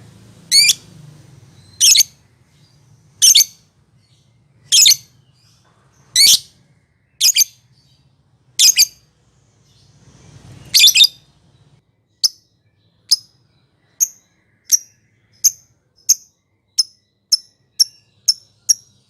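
Lovebird calling: loud shrill calls about every second and a half, then, from about two-thirds of the way in, a run of shorter, sharper chirps that come faster and faster.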